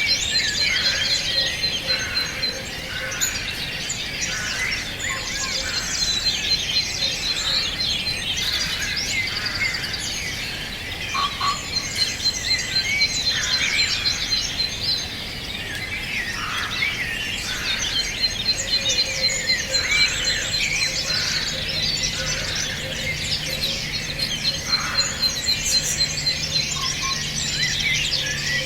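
Several birds singing at once, a dense chorus of chirps and whistles, with a high, fast-pulsing trill running under them on and off.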